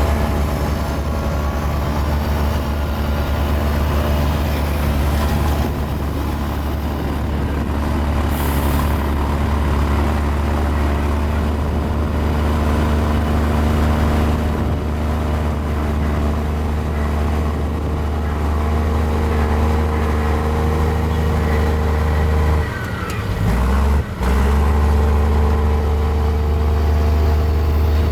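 Mini Komatsu bulldozer's diesel engine running steadily under load, a deep, constant hum. About 23 seconds in, the engine note dips and shifts briefly, then comes back to full.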